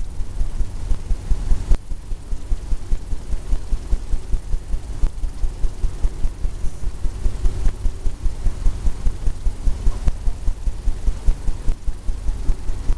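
A painting tool tapping paint onto a stretched canvas, making a steady run of soft low thumps, about three to four a second.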